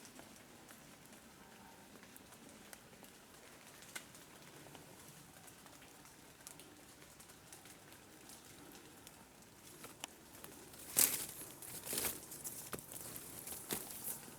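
Faint patter and scattered light ticks, then a few seconds of louder rustling and crackling starting about eleven seconds in.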